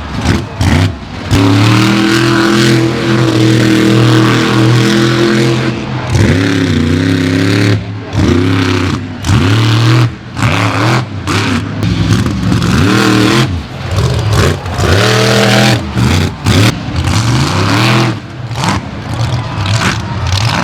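Monster truck engine at high revs. It holds steady for a few seconds, then its pitch swings up and down again and again as the throttle is worked, broken by many sudden brief gaps.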